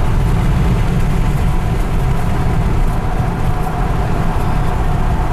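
Steady low rumble of a car driving at highway speed, tyre, engine and wind noise heard from inside the cabin.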